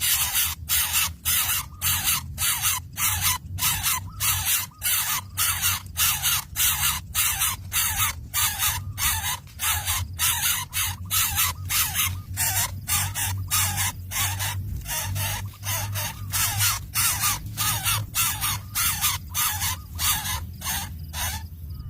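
Coucal chicks giving a fast run of harsh, hissing rasps, about two to three a second, cutting off at the end.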